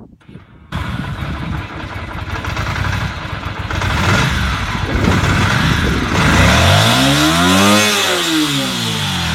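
An engine starts abruptly less than a second in and runs loudly. Near the end it revs up once and falls back.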